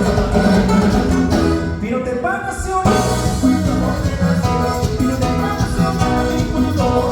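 Live dance-band music in a Latin style, with guitar and a steady beat. About two seconds in the low end and beat drop out briefly under a sliding melodic line, then the full band comes back in.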